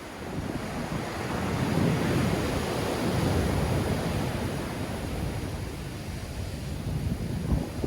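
Black Sea waves breaking in strong wind. The surf swells about a second in and washes back over several seconds, and wind buffets the microphone in short gusts near the end.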